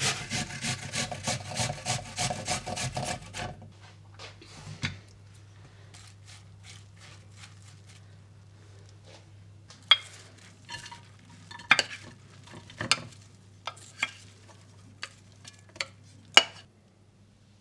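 A utensil stirring in a bowl with quick, even strokes, about three or four a second, that stops about three and a half seconds in. Then come scattered sharp clinks of utensils and dishes being handled.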